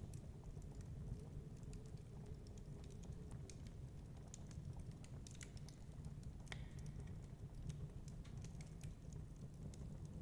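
Wood fire crackling in a fireplace: irregular sharp pops and snaps over a low, steady rumble, with one louder pop about six and a half seconds in.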